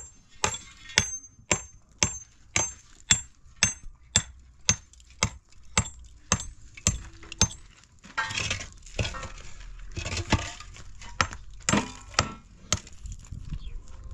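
Sharp clinking strikes with a short high ring, evenly spaced about two a second, stopping about halfway through. Irregular clattering and rustling follow.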